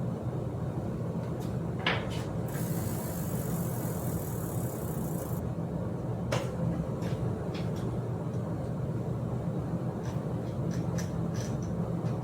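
Scattered metallic clicks and knocks of bike parts and tools being handled, over a steady low hum, with a high hiss lasting about three seconds near the start.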